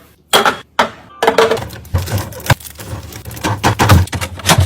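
Clattering and knocking of packaged groceries and plastic containers being handled and set down, with several sharp knocks, the sharpest about two and a half seconds in.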